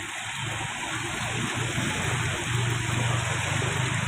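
Steady rush of water, with a low vehicle engine hum that grows louder from about a second in and holds through the second half.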